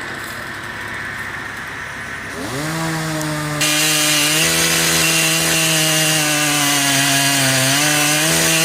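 Chainsaw running low at first, then revving up about two and a half seconds in. It then runs at high speed, its pitch sagging slightly now and then under load as it cuts into wood.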